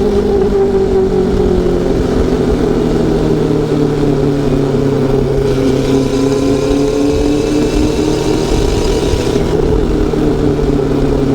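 Honda CB400SF Super Four's inline-four engine running under way, its note falling slowly as the bike eases off, over a constant low rush of noise.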